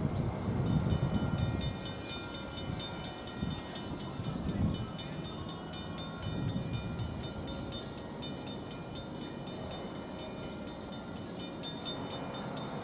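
Electric commuter train rumbling past on the rail line, heaviest in the first two seconds and again briefly a few seconds in. Over it a rapid, evenly repeated ringing starts about half a second in and keeps going, as from a grade-crossing bell.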